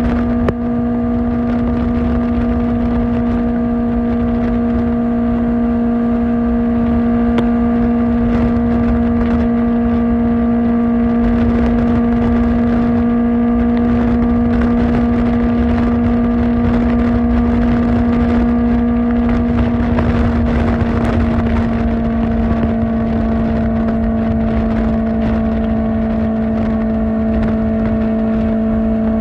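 Kawasaki Ninja ZX-4R's inline-four engine through an Akrapovic exhaust, cruising at steady high revs with wind and road rush underneath. The pitch eases down slightly about two-thirds of the way through.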